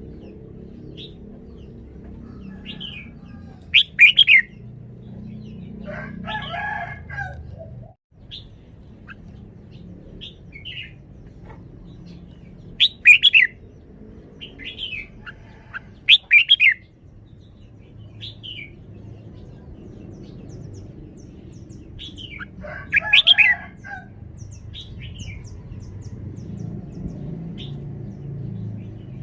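Red-whiskered bulbul singing: short, loud, warbling phrases every few seconds, with softer single notes between them, over a low steady background hum.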